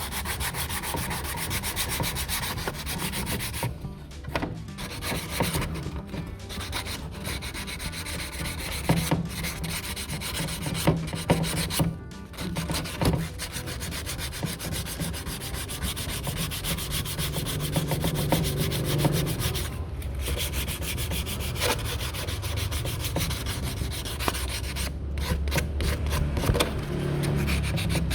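Sanding, an abrasive rubbing that scrapes on and on, broken by a few short pauses.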